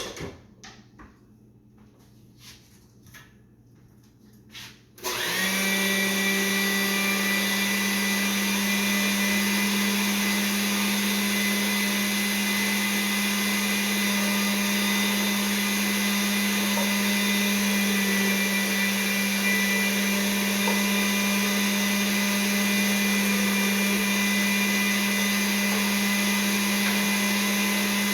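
Electric kitchen grinder switched on about five seconds in, its motor running steadily as it grinds the filling ingredients. A few light clicks of handling come before it starts.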